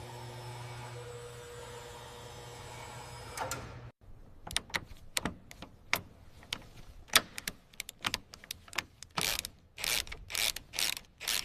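A steady mechanical hum that cuts off abruptly about four seconds in, followed by an irregular run of sharp clicks and knocks, like tools and metal parts being handled, and near the end several short hissing bursts.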